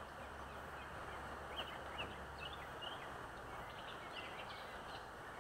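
Quiet outdoor ambience: a steady faint hiss with small birds chirping now and then, and a low hum that fades out about halfway through.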